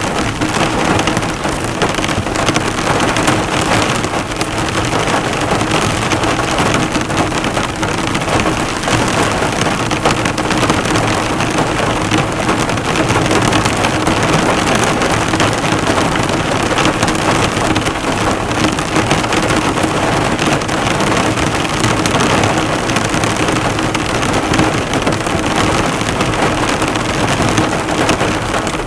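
Heavy rain falling on a car, the drops bouncing off its hood in a dense, steady patter.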